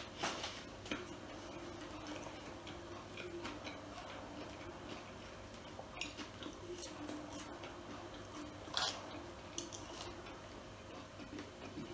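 Faint chewing and small mouth clicks of a person eating a burger and French fries, with one short louder click about nine seconds in.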